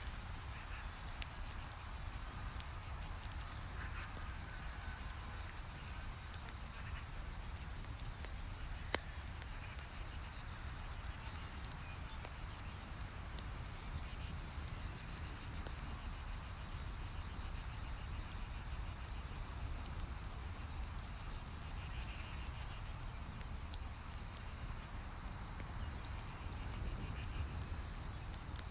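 Campfire crackling, with a few sharp pops standing out, over a steady outdoor background of insects chirping.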